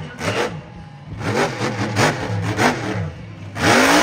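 Monster truck's supercharged V8 engine revving in quick bursts: a run of short throttle blips from about a second in, then a loud rising rev near the end.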